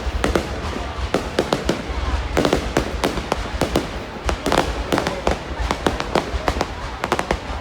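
Fireworks display: a dense, irregular string of sharp bangs and crackles from bursting shells, several a second, over a low rumble.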